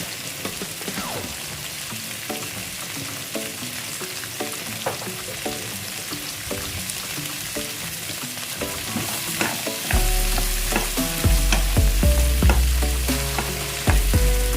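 Food sizzling as it fries in a pan, under background music that gains a heavy bass about ten seconds in.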